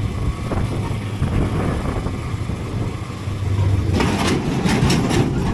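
A road vehicle's engine and road noise, a steady low drone. About four seconds in, a louder rushing noise with several sharp clicks joins in.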